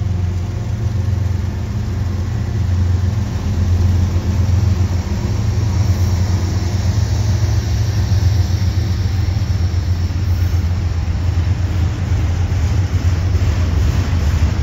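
Union Pacific diesel locomotives passing close by with a deep, steady engine drone, then the rumble of double-stack container well cars rolling past once the last locomotive has gone by.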